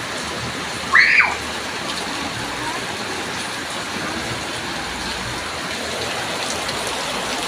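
Steady rain falling, with a child's brief high-pitched shout about a second in.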